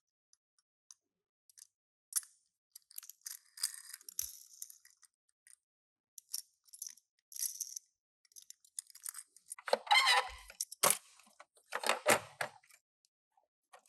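Toy car packaging being handled and opened, crinkling and rustling in irregular crackles, loudest about ten and twelve seconds in.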